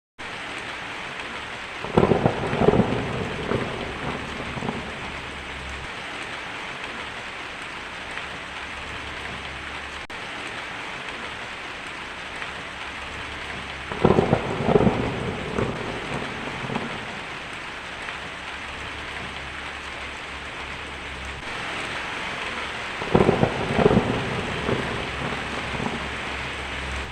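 Steady rain falling, with three claps of thunder that each rumble for a couple of seconds: near the start, about halfway through and near the end.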